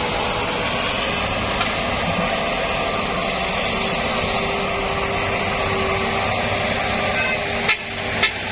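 Steady vehicle engine and road noise, with two sharp clicks near the end.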